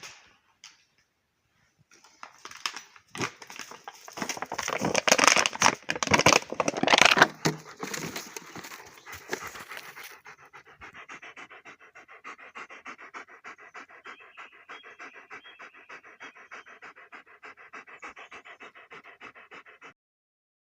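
A dog panting close by in quick, even breaths, about four a second, for the second half. The first half holds louder, irregular rustling and huffing.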